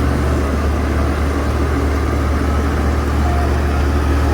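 Heavy truck's diesel engine running steadily with a deep, even hum.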